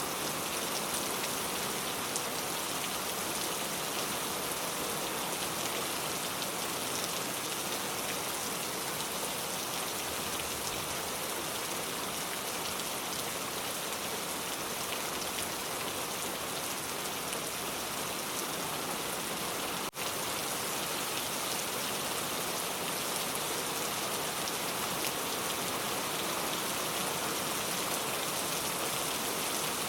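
Steady rain falling, an even dense patter; the sound drops out for an instant about two-thirds of the way through.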